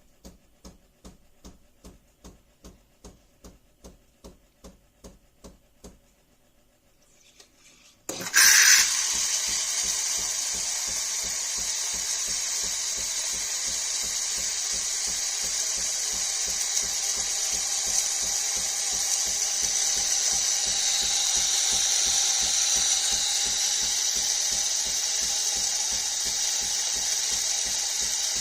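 Philips 5400 Series bean-to-cup espresso machine at work. It ticks softly and evenly, about two and a half times a second, then stops. About eight seconds in, a loud, steady motor whirr with a hiss starts suddenly and keeps going.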